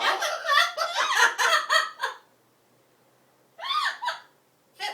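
Amazon parrots calling: a quick run of squawks and chattering calls lasting about two seconds, then a pause, then a shorter burst of calls near the end.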